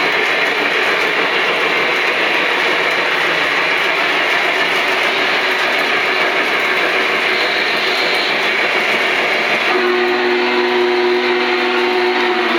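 Lionel O scale model train running on three-rail track, a steady rushing noise of wheels and motor. About ten seconds in, the locomotive's onboard sound system sounds its horn, a steady multi-note chord held for about three seconds.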